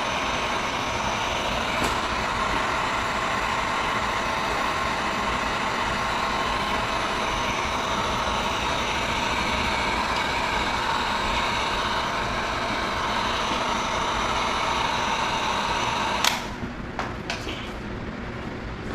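Hot-air blower running with an even rushing noise and a faint whine, heating the tank badge to soften its adhesive; it cuts off with a click about sixteen seconds in.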